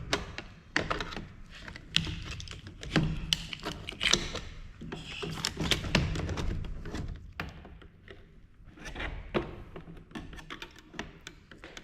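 Irregular knocks, taps and clicks of hand tools against a monitor's housing as it is pried open, busiest in the first several seconds and sparser after about eight seconds.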